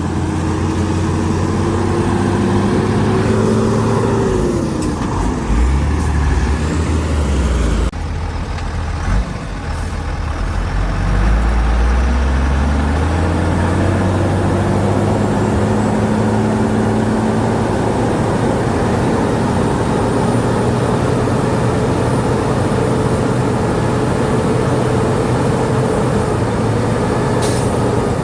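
Shantui DH17C2 bulldozer's diesel engine working under load, its pitch rising over the first few seconds, dropping about four to five seconds in, then climbing again from about eleven seconds, holding, and falling off near the end.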